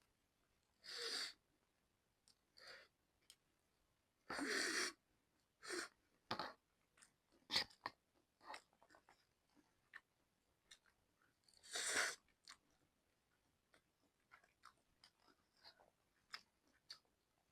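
Close-up eating sounds of a person eating creamy ramen noodles: soft chewing and wet mouth clicks, broken by three longer noisy bursts of about a second each.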